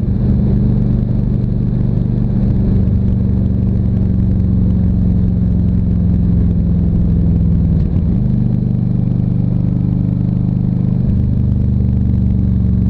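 Harley-Davidson Ultra Classic Electric Glide's V-twin engine running under way at a steady pitch, heard from the saddle; the engine note dips briefly about eight seconds in and again about eleven seconds in.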